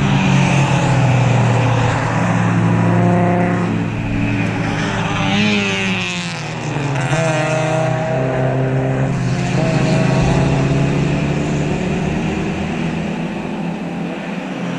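Several club race cars' engines running at high revs as they pass close by, one after another, their pitch sliding as each goes past.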